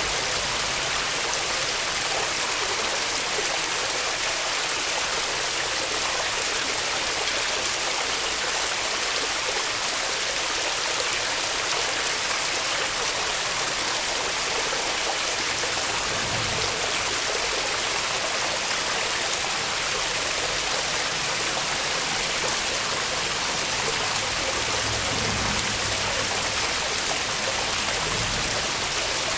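Waterfall: water falling and rushing in a steady, unbroken hiss, with a few soft low rumbles now and then.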